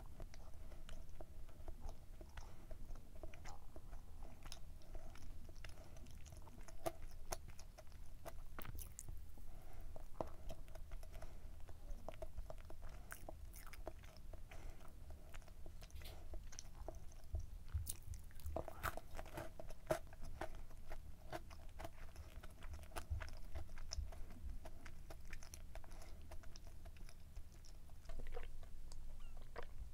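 Close-up chewing and biting of a fudgy, chewy chocolate brownie muffin topped with an Oreo cookie, with many small wet mouth clicks throughout.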